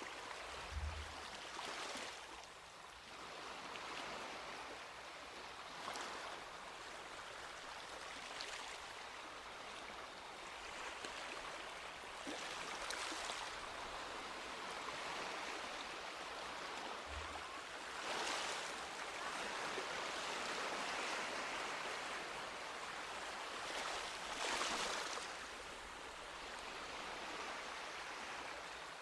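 Small sea waves breaking and washing up the beach, the wash swelling every few seconds, loudest near the end. Two brief low thumps, about a second in and again about 17 seconds in.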